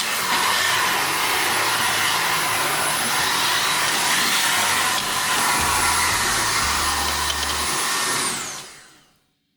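Dreame Z10 Station cordless stick vacuum running with a steady high whine, switched off near the end, its motor winding down with a falling whine to silence.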